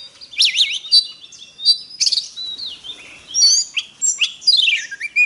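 Oriental magpie-robin singing: a fast, varied string of clear whistled notes with sliding pitches, ending in a falling run of short notes.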